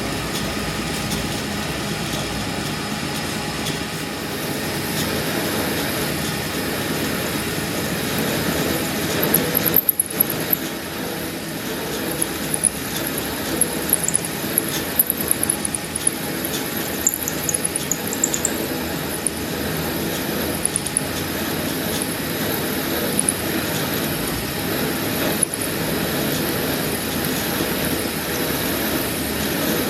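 Steady running of workshop machinery, with scattered sharp metallic clicks and faint high squeals in the middle stretch.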